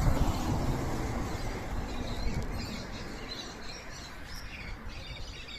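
Birds chirping: many short, high chirps scattered through, over a low rumble that fades after the first couple of seconds.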